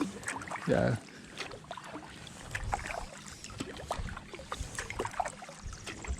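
Kayak paddling: the blades of a composite kayak paddle dipping into the creek, with small irregular splashes and water dripping off the blades.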